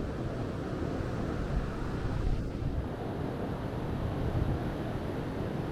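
Wind buffeting the microphone on an open beach: a steady, fluctuating low rumble with no distinct events.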